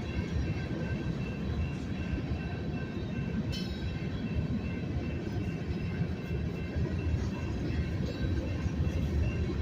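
Slow-moving freight train rolling past: a steady low rumble of wheels on rail with faint, steady high-pitched squeal tones, and a single sharp metallic clank about three and a half seconds in.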